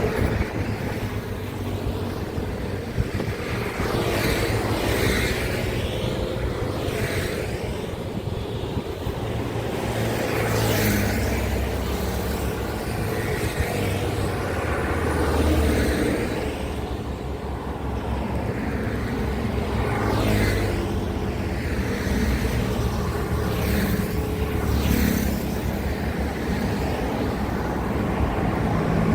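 Road traffic going past: a continuous low drone of heavy engines, with a rush of tyres and engine noise swelling and fading as vehicles go by one after another, about every few seconds.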